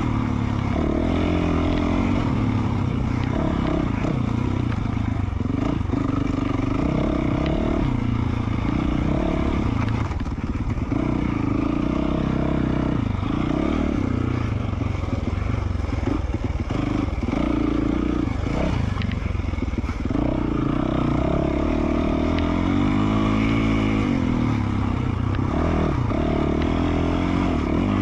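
2020 Yamaha YZ450F's single-cylinder four-stroke engine with an FMF Q4 slip-on exhaust, revving up and falling back over and over as the throttle is worked on a dirt trail, with some clatter.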